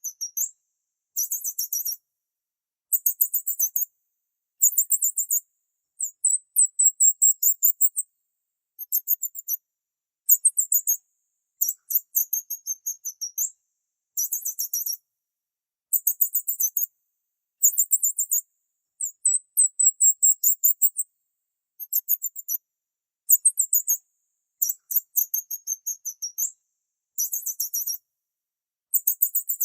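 Bird chirping in a long series of short, very high-pitched rapid trills, one about every second or so, with silence between them.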